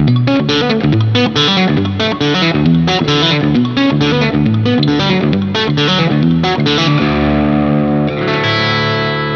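Electric guitar, a Vola Vasti V3 MC, played through a Neural DSP Quad Cortex with crunchy, distorted amp settings: a fast riff of short, chopped notes, then about seven seconds in a chord is struck and left to ring, with a second chord struck shortly after.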